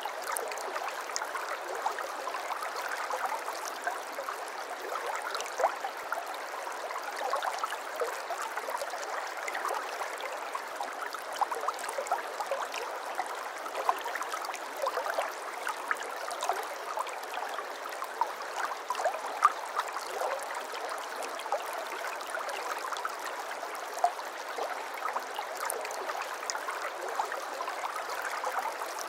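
Water flowing and babbling steadily in a small stream, with many little plinks and gurgles and now and then a slightly louder splash.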